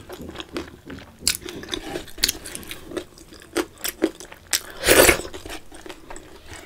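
Close-up chewing and wet mouth sounds of a person eating rice mixed with curry by hand, with many small clicks and a louder noisy burst about five seconds in.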